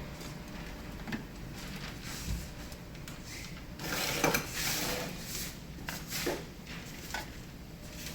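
Scattered clicks and knocks of tools and metal engine parts being handled, with a louder scraping rattle about four seconds in.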